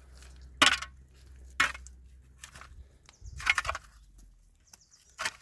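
A series of sharp knocks, roughly one a second, with a longer, heavier impact about halfway through.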